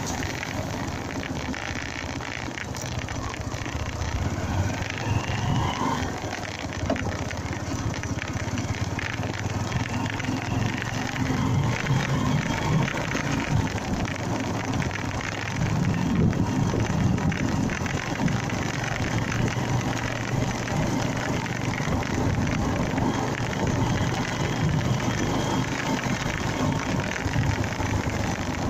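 Honda Mega Pro motorcycle under way: its engine running, with steady wind and road noise over the microphone.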